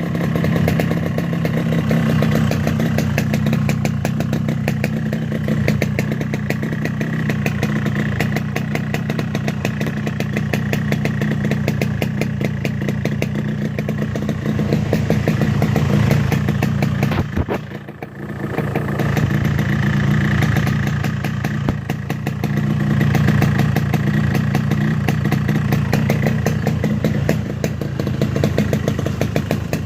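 Yamaha RX-King two-stroke single-cylinder motorcycle running through its stock exhaust, idling with a crisp, rapid crackle and small rises in revs. About three-fifths of the way through the engine note briefly drops away, then picks back up.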